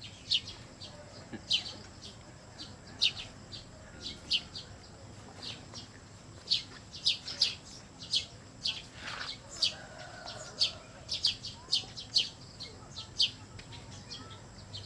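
Bird chirping outdoors: short, high chirps repeated irregularly, about one or two a second.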